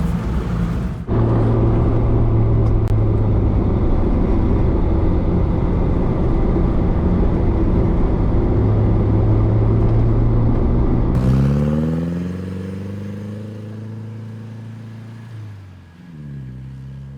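Toyota Blizzard 4x4's diesel engine running steadily under way. About eleven seconds in the engine note rises as it accelerates while the sound grows fainter, then the pitch drops near the end as it shifts or lets off.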